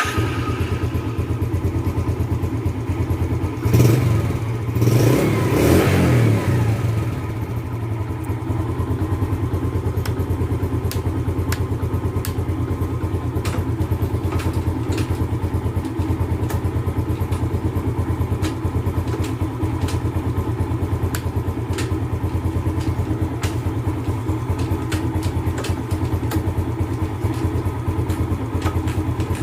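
Yamaha Jupiter Z underbone motorcycle's single-cylinder four-stroke engine running. It is revved up briefly a few seconds in, then settles to a steady idle with faint irregular clicks.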